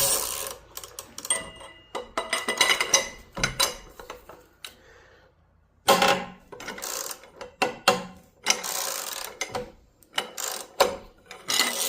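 Socket wrench and steel cheater pipe clicking and clanking in bursts as they are worked against a stubborn motorcycle front axle that won't break loose, with a short quiet pause about halfway.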